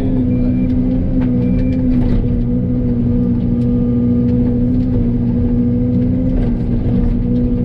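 Heavy diesel engine running steadily at an even speed, with a couple of short high beeps in the first two seconds.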